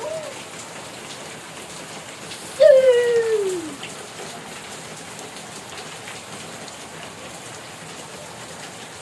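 Steady rain falling and splashing on a surface. About two and a half seconds in, one drawn-out call rises above it and slides down in pitch for about a second.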